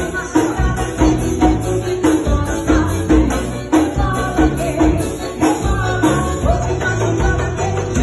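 Live band playing at a soundcheck, with a steady beat, bass and jingling percussion.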